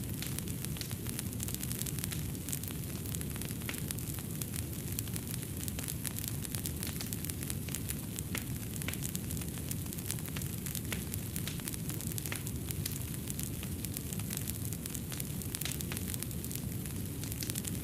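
Fireplace fire burning steadily: a continuous low rumble with many small, sharp crackles and pops scattered irregularly throughout.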